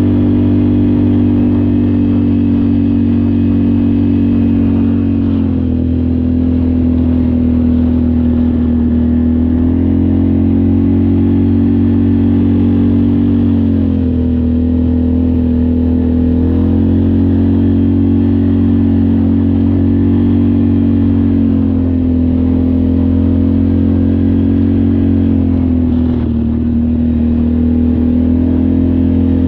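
ATV engine running under way, its pitch rising and falling gently every few seconds as the throttle is eased on and off.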